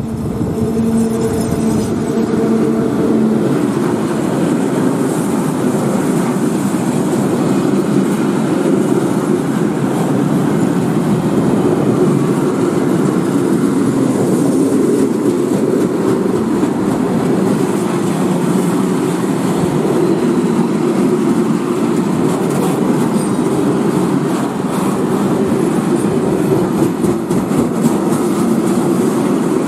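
Class 182 electric locomotive and a long train of open freight wagons rolling past close by: a steady heavy rumble of wheels on rail with faint clatter, and a steady hum that stops about three seconds in.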